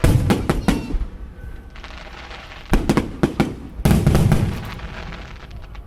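Fireworks shells bursting in quick clusters of sharp bangs. One volley comes at the start and another about three seconds in, and a heavier, deeper burst follows near four seconds.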